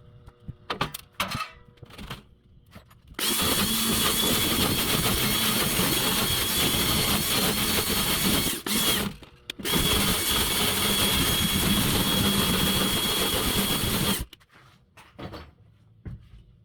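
A small handheld power tool's motor running steadily with a constant whine for about five seconds, stopping for about a second, then running another five seconds. A few light knocks come before it starts.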